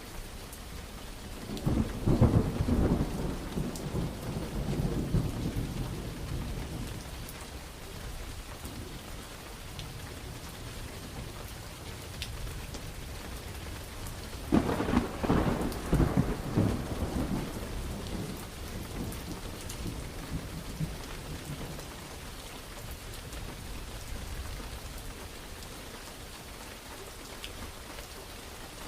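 Steady rain falling, with two rolls of thunder: the first about a second and a half in, the second starting sharply halfway through, each crackling and then rumbling away over several seconds.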